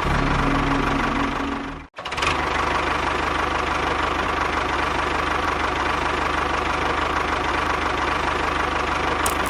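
A motor running steadily, broken by a brief dropout just before two seconds in and resuming straight after.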